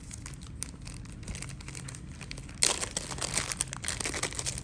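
Plastic packaging crinkling as it is handled, in a dense crackle lasting about a second and a half that begins a little past halfway, after a quieter stretch of a few faint ticks.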